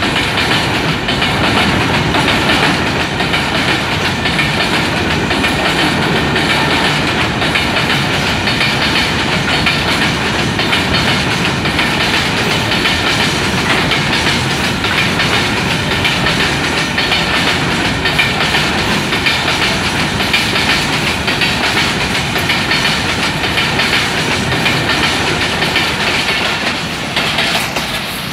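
Freight train wagons passing close by at high speed: a steady, loud rush of wheels clattering over the rail joints. The noise drops away near the end as the last vehicle, the brake van, goes by.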